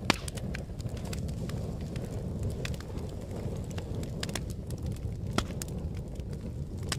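Fire crackling: a steady low rumble of burning, with irregular sharp pops and crackles throughout. A loud pop comes just at the start, and another stands out about five and a half seconds in.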